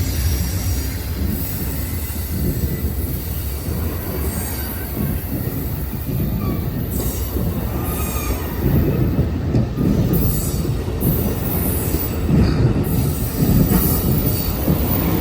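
Amtrak California Zephyr passenger train rolling past on the track, a steady low rumble of cars and wheels with a few brief high-pitched wheel squeals. It grows louder about halfway through.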